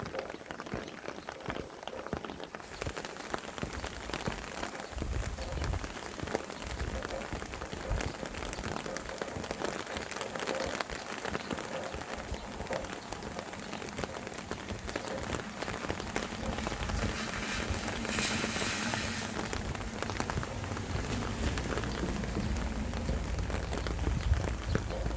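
Steady rain falling, with gusts of wind heard as a low rumble from about five seconds in and again, stronger, near the end. A brief louder rush of rain or wind comes about two-thirds of the way through.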